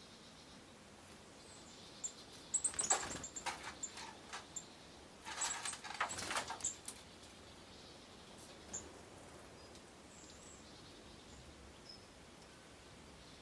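Forest birds giving scattered short, high chirps, with two bouts of close crackling or rustling about two and a half and five seconds in.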